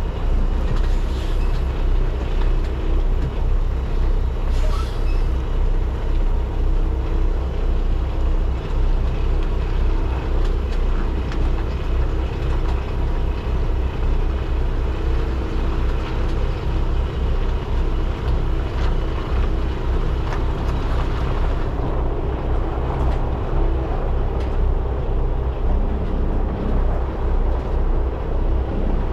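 Semi truck's diesel engine running steadily at low speed while maneuvering.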